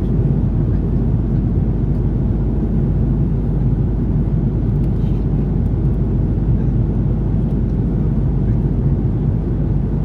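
Steady low rumble inside the cabin of an Airbus A330-300 with Rolls-Royce Trent 700 engines: engine and airflow noise, even in level with no change.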